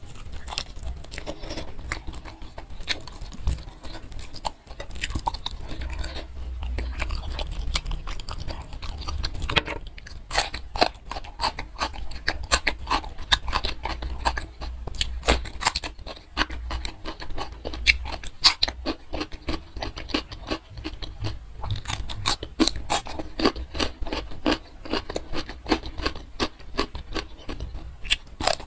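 Close-miked eating sounds: steady chewing with many sharp, wet mouth clicks, as chicken in green chilli sambal and raw cucumber are eaten by hand. The clicks grow denser from about ten seconds in.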